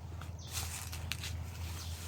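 Footsteps on a garden path over a steady low rumble, with a couple of short faint chirps.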